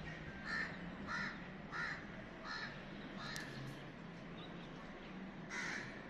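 A bird cawing in a steady series of about five short calls, roughly two a second, then once more near the end, over a faint low hum.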